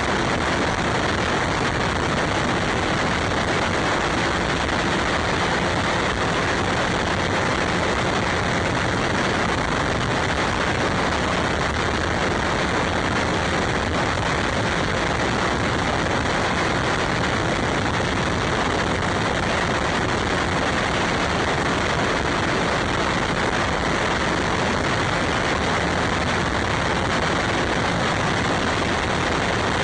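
Steady, even rushing noise that never changes: wind and road noise on a camera riding on a moving bike.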